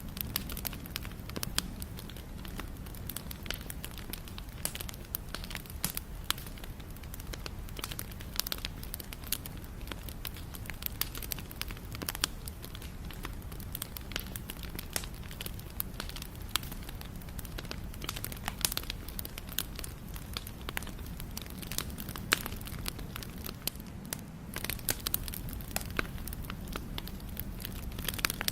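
Wood fire crackling: many sharp irregular snaps and pops over a steady low rumble of burning.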